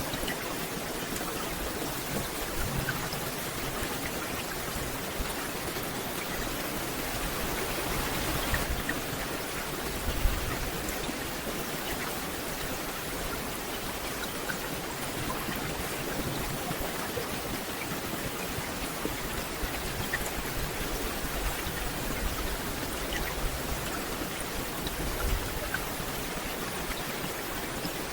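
Steady rain falling on forest foliage: a dense, even hiss with scattered individual drops ticking through it.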